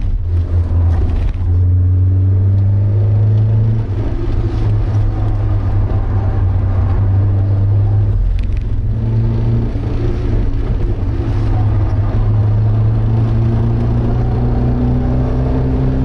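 Porsche 924's 2.0-litre four-cylinder engine running hard under load, heard from inside the cabin. The note breaks briefly about four and eight seconds in, then climbs steadily in pitch over the last few seconds as the car accelerates.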